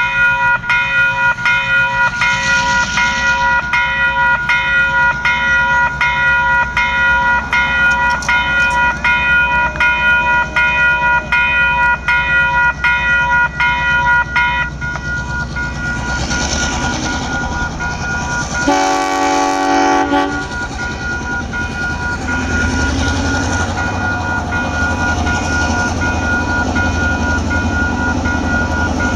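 Level crossing warning bells dinging over and over, stopping about halfway through; then one horn blast of about a second and a half from the lead diesel locomotive, 42 class 4201, followed by the low rumble of the locomotive approaching.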